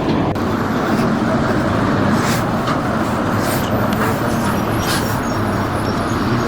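Steady road-vehicle noise: engines running and traffic passing, with a few brief hissing swells.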